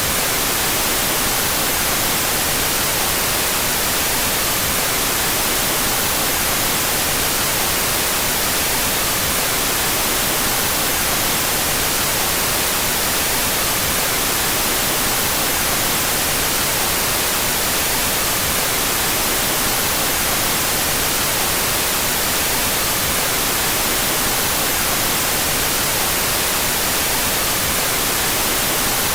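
Steady white noise: a constant, even hiss that is strongest in the high end. The stereo channels are out of phase with each other.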